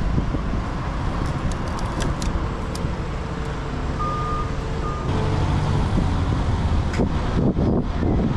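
An engine running steadily, with wind buffeting the microphone; a short high beep sounds twice about four to five seconds in, and the engine noise grows louder just after.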